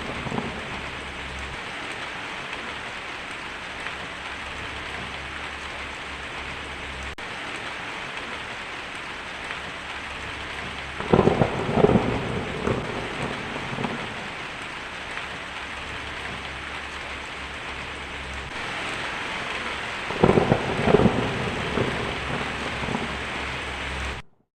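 Heavy rain drumming steadily on a tin roof, with two rolls of thunder rumbling, one about halfway through and one near the end. The sound cuts off abruptly just before the end.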